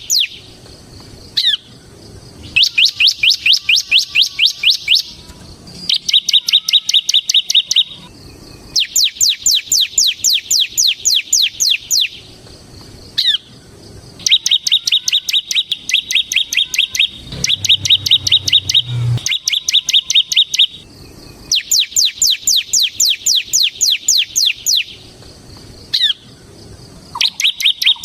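Bar-winged prinia (ciblek) singing vigorously in long bursts of a few seconds each. Fast runs of sharp down-slurred chirps, about eight a second, alternate with even buzzy trills, with short pauses between the bursts.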